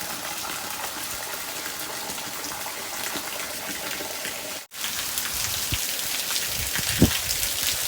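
Steady rain falling, an even hiss of drops on surfaces, cut off briefly a little past halfway before resuming; a few low thuds in the second half, the loudest near the end.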